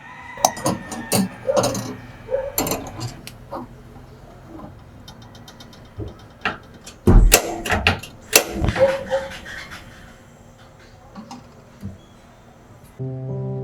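Irregular clicks, knocks and clatters of household objects being handled, in two bursts, the loudest a heavy thud about seven seconds in. A gentle instrumental tune starts near the end.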